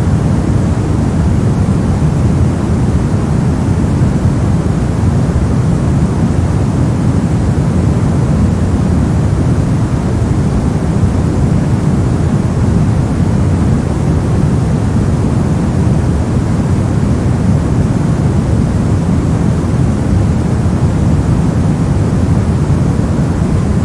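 Steady, unbroken white noise for sleep, weighted toward the low end so it sounds like a deep, even rush without any change.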